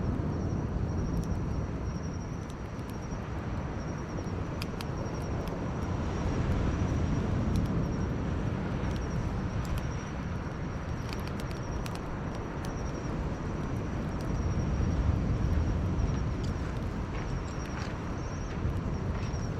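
Campfire burning, with scattered sharp crackles and pops over a low, steady rumble. A faint high pulsing chirp sounds on and off throughout.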